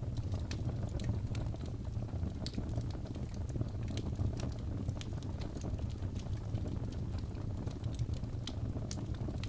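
Wood fire burning in a fireplace: a steady low rumble of the flames with irregular sharp crackles and pops several times a second.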